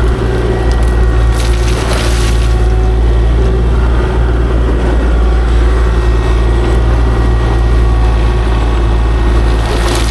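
Kubota KX040-4 mini excavator's diesel engine running steadily under load, with a brief louder rush about two seconds in and again near the end.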